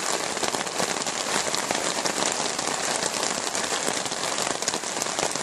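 Heavy rain pouring down, a steady, dense patter of drops without a break.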